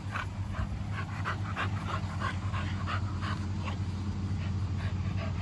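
American Bully puppy panting after running, about three quick breaths a second, over a steady low hum.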